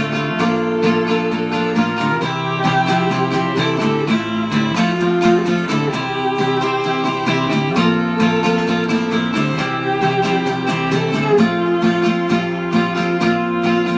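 Instrumental chamber-folk passage: guitar picked or strummed in a steady rapid rhythm under viola holding long notes that change every second or two.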